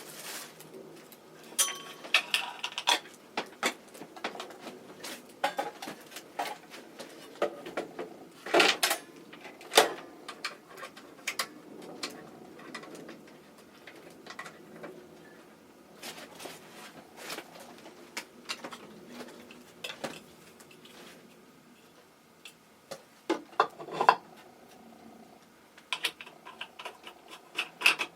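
Irregular clattering, clicks and knocks of hard objects being handled and set down, some sharper and louder than others, with a quieter stretch shortly after the middle.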